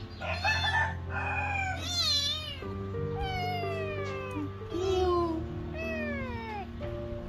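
A kitten meowing repeatedly, about five high calls that each fall in pitch, while it is being given eye drops. Background music plays underneath.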